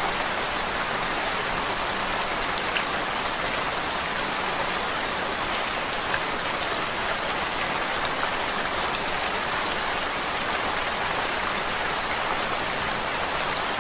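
Steady rain as an ambient noise track: a dense, even hiss with many small drop ticks scattered through it.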